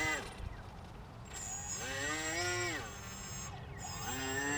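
An animal's drawn-out calls, each rising and then falling in pitch, about one every two seconds.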